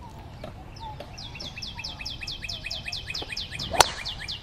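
A bird calls a fast run of short, falling chirps, about five a second. Near the end a golf club strikes the ball once with a sharp crack.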